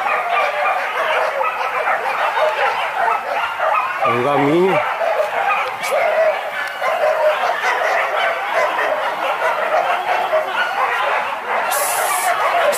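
A pack of boar-hunting dogs barking and yelping without pause, with a man's shout about four seconds in.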